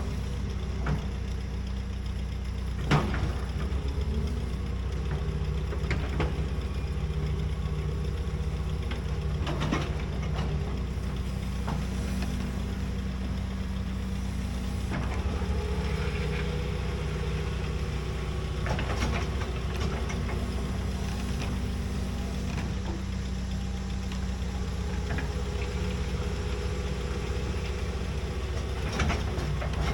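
Large hydraulic excavator's diesel engine running steadily, its pitch shifting now and then with load while digging, with a few sharp knocks.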